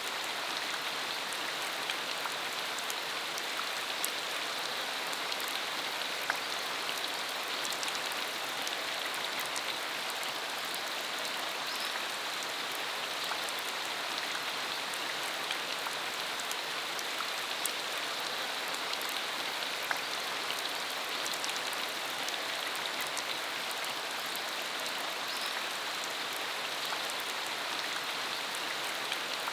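Steady rain falling on a dirt country road: a constant hiss with scattered sharper ticks of single drops.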